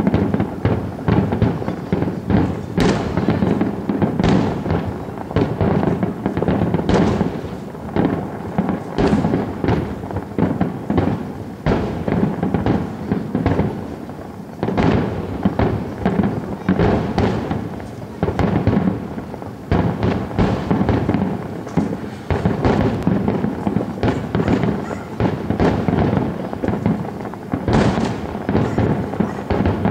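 Aerial fireworks display: a dense, continuous barrage of shells bursting, with booms and crackling overlapping one another without a break.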